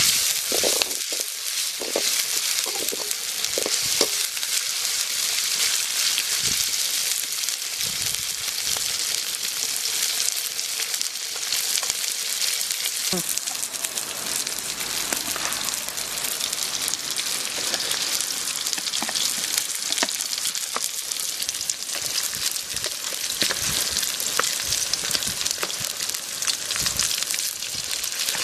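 Onions, green chillies and curry leaves sizzling in hot oil in a large aluminium wok over a wood fire, a steady frying hiss, with a metal ladle scraping and clicking against the pan now and then as it stirs.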